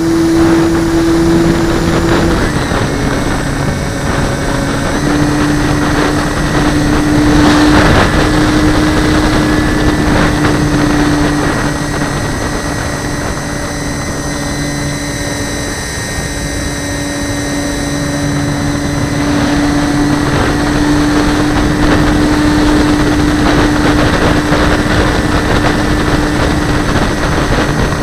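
A light aircraft's propeller engine drones steadily, its pitch shifting slightly a few times, under heavy wind rushing over a camera mounted on the wing.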